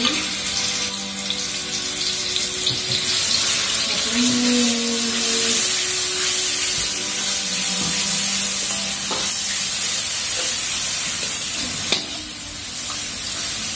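Ground shallot, garlic and pepper spice paste sizzling steadily as it is sautéed in hot oil, with a single sharp knock near the end.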